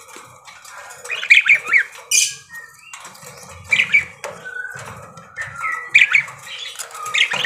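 Pet budgerigars chattering: short runs of chirps and squawks that come in clusters several times, with a brief rustle about two seconds in.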